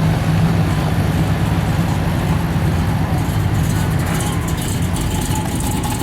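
A car engine running steadily at idle, a low hum, with faint voices in the background.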